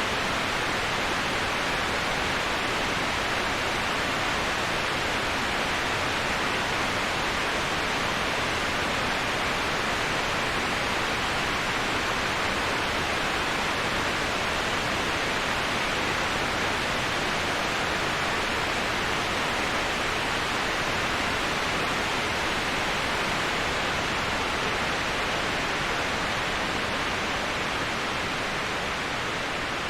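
Waterfall rushing in a steady, even hiss, with no breaks or changes.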